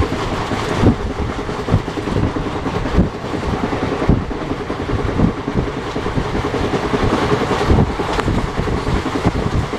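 Express passenger train running on rails, heard from on board: a steady rumble and rush with irregular knocks from the wheels passing over rail joints, about one every second or two.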